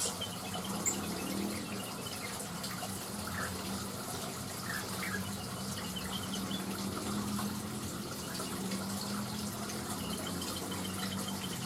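Steady running water with a low steady hum under it, and a few faint, short bird chirps over it.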